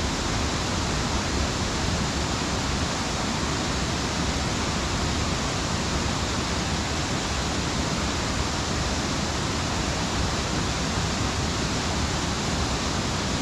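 Steady, even rush of Harmby waterfall's falling water.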